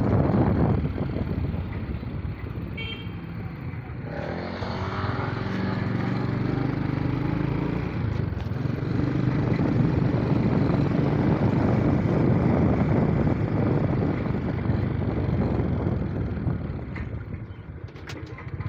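Vehicle engine running steadily with road and wind noise while travelling.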